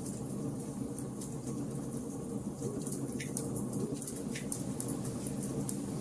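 Wood fire burning in a fireplace: a steady low rush of flames under rapid light crackling, with two sharper pops of the burning logs about three and four and a half seconds in.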